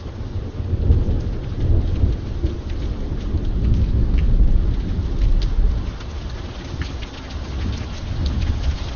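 Steady rain with a long roll of thunder that builds over the first few seconds, is strongest around the middle, then eases off. Scattered sharp drops tick on a hard surface.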